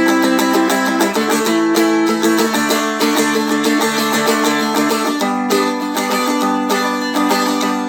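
A plucked stringed instrument playing a quick run of picked notes in a bright, high register.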